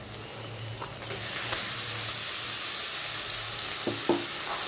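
Chopped onions and tomatoes sizzling in hot oil in a kadai. The sizzle grows louder about a second in, as a wet paste of ginger, garlic, onion and green chilli goes into the pan.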